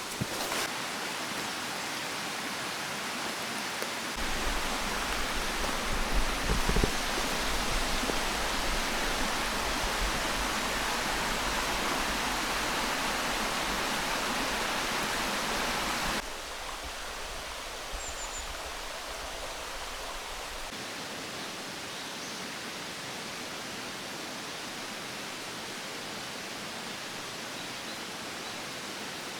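Steady rushing water noise that changes level abruptly a few times, with a low rumble in the first part.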